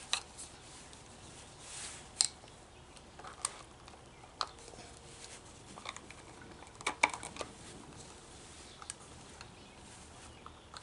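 Scattered light clicks and knocks of a string trimmer's bump head being handled and prodded, a second or two apart, with a quick run of clicks about two-thirds of the way through.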